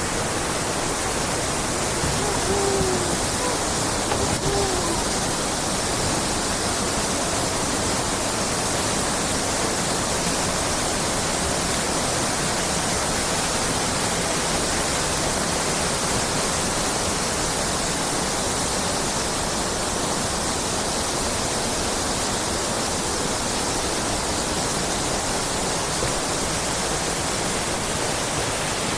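Steady, even rushing noise that holds at one level throughout. Two faint short pitched sounds come a few seconds in.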